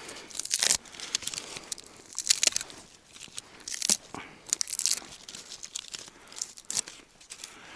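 Tree bark being torn and peeled off by hand for fire tinder: a series of irregular, crackly rips and crunches.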